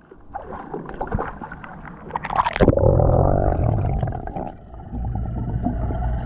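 A splash about two and a half seconds in, then a muffled steady hum with a whine: a battery-powered TrackMaster Thomas toy's small electric motor running underwater.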